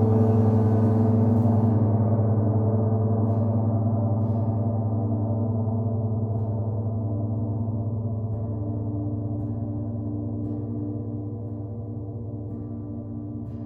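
Gong ringing out with a dense layer of overtones over a deep hum, fading slowly. Its bright upper shimmer dies away within the first couple of seconds.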